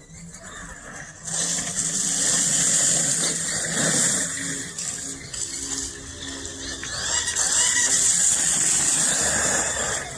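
CEN Reeper 1/7-scale electric RC monster truck running close by, its motor and drivetrain whining and its tyres hissing over dirt. It gets loud about a second in, eases off around the middle, then surges again before fading near the end.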